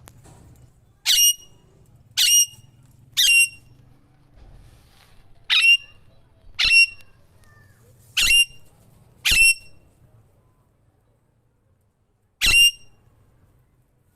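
Alexandrine parakeet giving eight loud, short, high calls, mostly about a second apart, with a longer pause before the last one.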